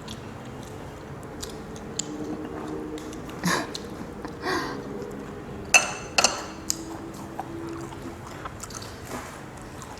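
A person eating close to the microphone: chewing and mouth sounds broken by a few sharp clicks and taps, the loudest a little before the middle.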